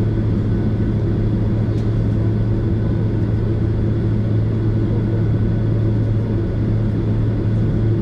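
Boeing 767 cabin noise: the airliner's jet engines and airflow make a steady drone with a deep constant hum.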